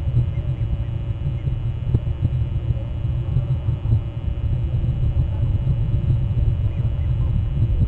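Steady low rumble of wind buffeting an outdoor camera microphone, with a few faint, short high chirps in the background.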